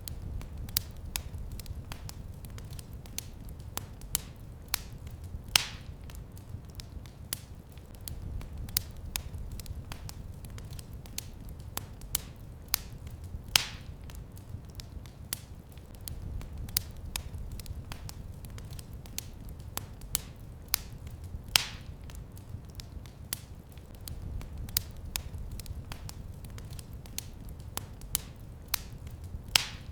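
Wood fire crackling in a fireplace: a constant scatter of small crackles and ticks, with a sharper pop about every eight seconds, over a low steady rumble of the flames.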